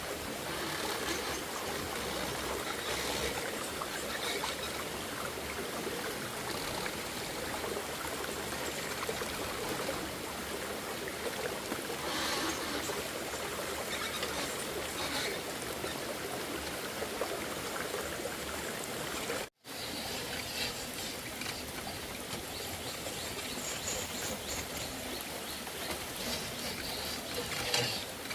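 Steady sound of running water, broken once by a split-second gap about two-thirds of the way through.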